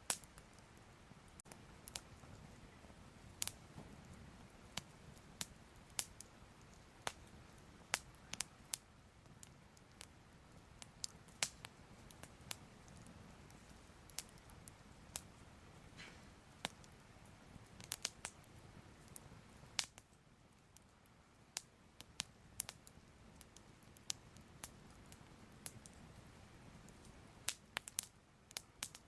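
Soft crackling fire: irregular sharp pops and snaps over a faint low rumble.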